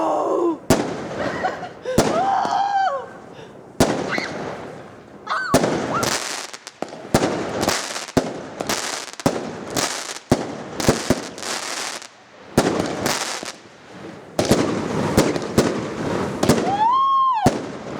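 Multi-shot consumer firework cakes (20–40 mm shells) firing a barrage: many sharp bangs in quick, irregular succession, with crackle between them.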